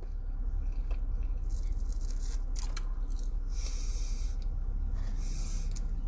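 Someone chewing and handling a chicken sandwich, with a few short rustles, over a steady low rumble.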